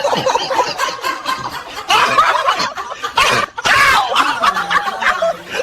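Hard laughter in several fits, with short breaks between them, in reaction to a joke.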